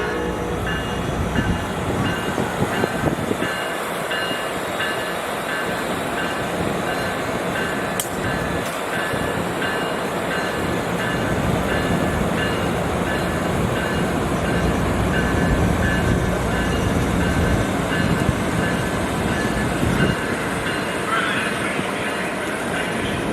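Train passing, its wheels on the rails making a steady rumble, with a faint tone repeating about once a second.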